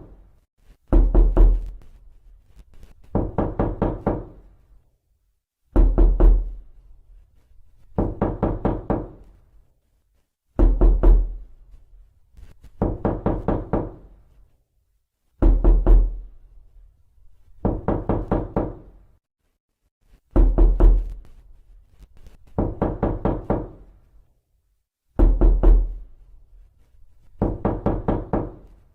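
Knocking on a door in quick volleys of several raps, one volley about every two and a half seconds. Heavier, deeper volleys alternate with lighter ones, with silence between.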